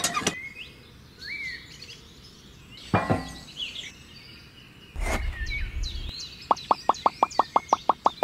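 Birds chirping with short rising and falling calls, over a single sharp knock about three seconds in and some low handling rumble as small diorama pieces are set in place. Near the end comes a quick, even run of about a dozen short clicks.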